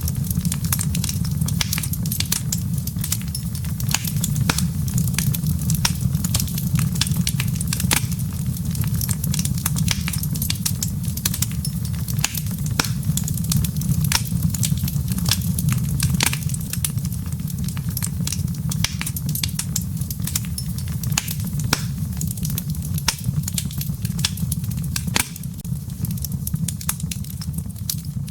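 Wood fire crackling in a fireplace: many irregular sharp pops and snaps from the burning embers over a steady low rumble of the flames, easing slightly near the end.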